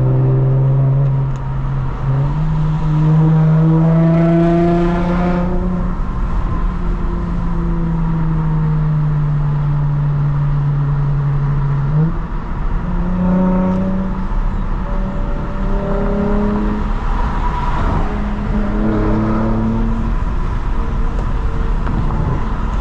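2022 Lexus IS350's V6 running through a loud, modified exhaust with no secondary cats and the muffler deleted, the car under way. The engine note jumps up about two seconds in, sinks slowly over the next ten seconds, then jumps up again and holds higher.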